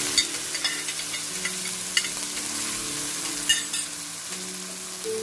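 Yogurt-marinated chicken sizzling in hot oil with onion and green chilli paste in a pan as a metal spatula stirs it. A few sharp clicks of the spatula against the pan stand out over the steady sizzle.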